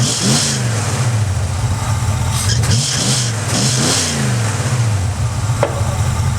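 Ford Mustang engine idling, blipped several times with the throttle so that it revs up and falls back, running with its distributor timing freshly reset. A sharp click near the end.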